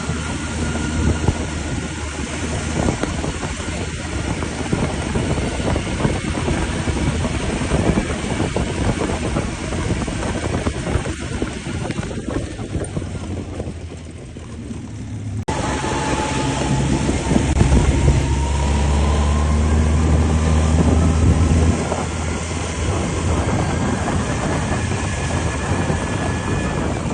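ATV (quad bike) engine running with a steady drone and rattle. About halfway through the sound fades, then cuts abruptly back in louder, and the engine note rises slowly for several seconds.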